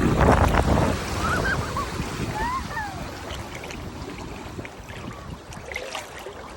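Atlantic Ocean surf: a wave breaks near the start, and its rushing wash fades steadily away.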